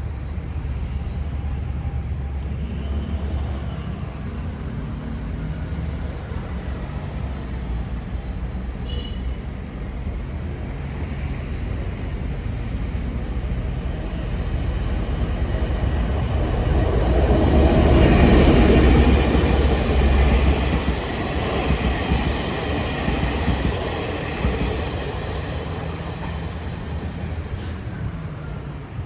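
Diesel-electric locomotive hauling a short string of passenger cars past, its low engine drone building to loudest about eighteen seconds in and then fading as the train moves on.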